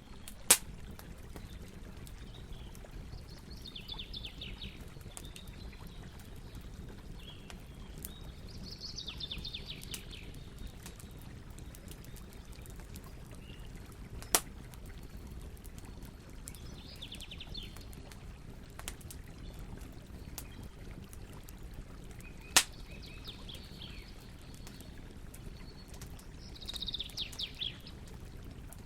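Campfire crackling over a low steady rumble, with three loud sharp pops from the burning wood. Birds chirp in short trills several times in the background.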